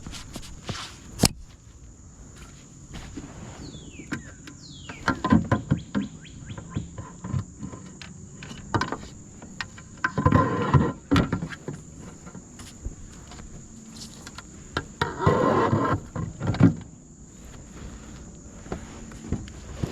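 Steady high-pitched insect buzz, with scattered knocks and clicks of gear and paddle against a kayak and two louder rushing noises lasting about a second each, around the middle and later on.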